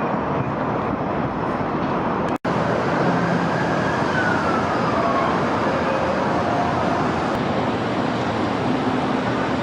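A faint emergency-vehicle siren wailing, its pitch gliding down, over a steady wash of city traffic noise heard from high above the streets. The sound drops out for an instant about two and a half seconds in.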